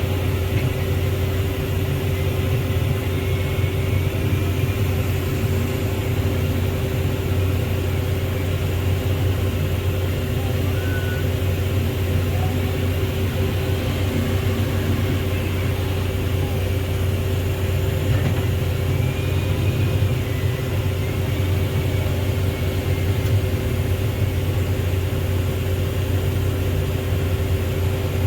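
Heavy diesel engine of a backhoe loader or tipper truck running steadily at one speed, a low constant drone with no revving.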